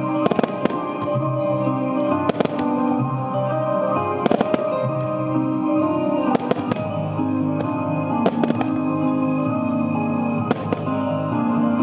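Star mine fireworks: aerial shells bursting with sharp bangs about every two seconds, some in quick pairs. Music with long held notes plays throughout.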